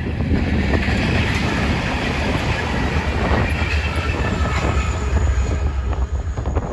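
A light-engine consist of several diesel locomotives running by, a steady heavy rumble of engines and wheels on rail with thin high-pitched wheel squeal over it.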